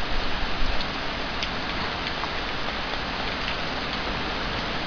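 Steady rain falling, an even dense hiss, with scattered sharper drops ticking close by and a few low bumps in the first second.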